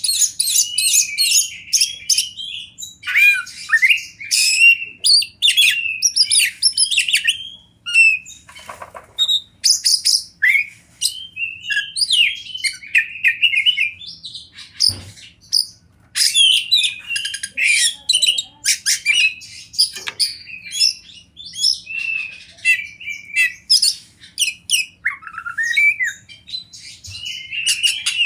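Oriental magpie-robin (kacer) singing loudly and without let-up, a fast varied run of whistles, chatters and clicking notes with a harsh buzzy rasp about nine seconds in.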